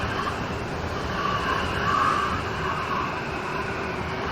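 Steady rain falling in a storm, an even hiss with a slight swell about two seconds in.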